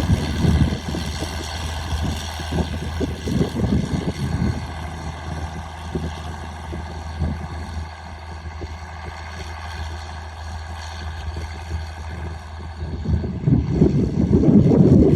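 Straight-piped John Deere 4630's turbocharged six-cylinder diesel running with a steady low drone, growing louder near the end.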